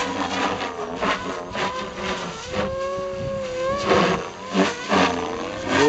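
Three-bladed Goblin RC helicopter flying 3D aerobatics: a pitched rotor and drive whine that bends up and down as the head is loaded through the moves, with repeated blade swishes.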